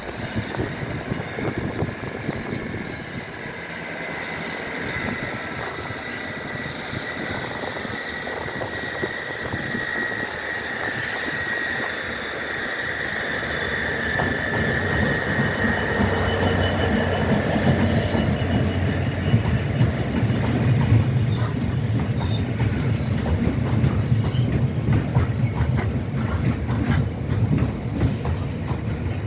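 Freight train of a Class 66 diesel locomotive and loaded stone wagons rolling through a station. Wheels squeal steadily for about the first half, while the rumble and clatter of the passing wagons grow louder.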